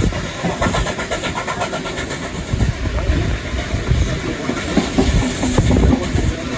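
Train hauled by steam locomotive 3801 running at speed, heard from onboard: a steady rumble of wheels and carriage with scattered knocks and rattles.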